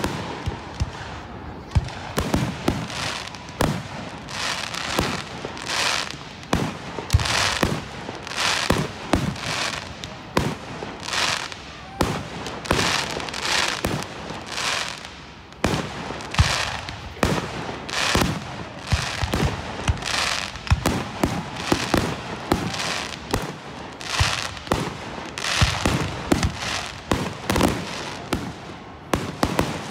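Fireworks display: aerial shells launching and bursting one after another, a quick string of bangs and crackles, one or two a second.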